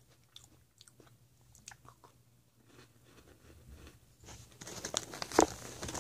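Crunchy Hello Panda biscuit being bitten and chewed. Faint scattered clicks at first, then loud, dense crunching from about four seconds in.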